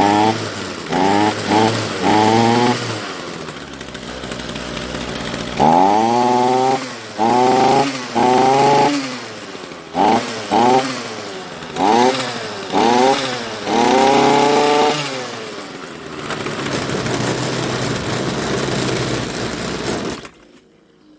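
Ryobi RBC254 two-stroke petrol strimmer engine running on choke, idling between about a dozen quick throttle blips that rise sharply in pitch. It settles to a steady idle, then cuts out near the end.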